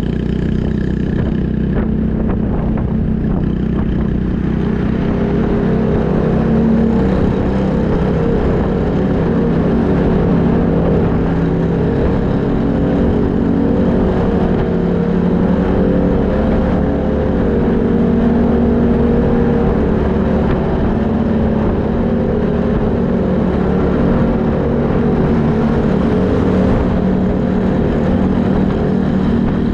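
Several motorcycles with aftermarket exhausts riding together: a Honda Super Cub 110's single-cylinder four-stroke engine through a Kitaco mini Caborn muffler, joined by a Yamaha YZF-R25 on an Akrapovič exhaust and a Yamaha Majesty S scooter. The engines run steadily at road speed, their pitch rising and falling a little, and they are loud.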